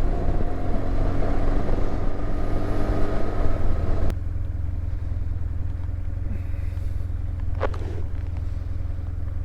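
BMW R1150GSA boxer-twin motorcycle being ridden, engine running steadily with road noise. About four seconds in the sound drops suddenly to a quieter, steady low drone.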